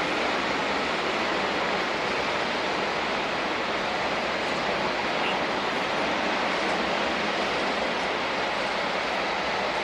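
Freight train of rail tank wagons rolling past at speed, a steady loud rushing of wheels on rail.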